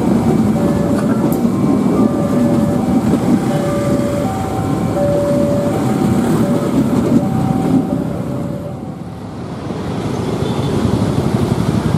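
Passenger train carriages rolling past a level crossing with a steady low rumble, while the crossing's warning alarm sounds an alternating two-note signal, about one note every half second. Near the end the train sound fades and road traffic with motorbikes takes over.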